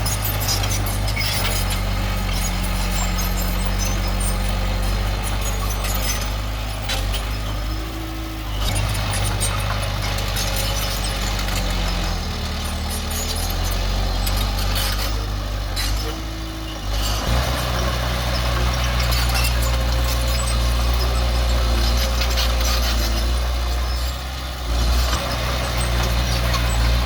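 Heavy diesel earthmoving machinery running, its engine pitch shifting under load, dropping off about two-thirds through and then coming back stronger. Scattered clicks and knocks run over the engine.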